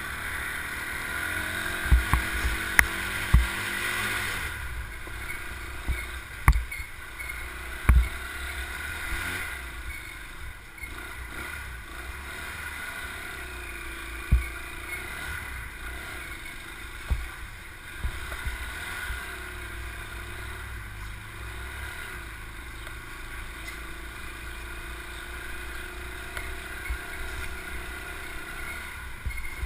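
A small motorbike engine running steadily while being ridden, its pitch rising and dipping with the throttle, over a low wind rumble on the microphone. Sharp thumps come every few seconds, the loudest about eight and fourteen seconds in.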